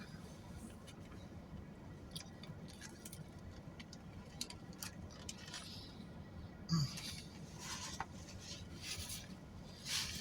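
Faint eating sounds of a man working through a sandwich: scattered light clicks and rustles of chewing and handling, with a brief low "mm" hum about seven seconds in.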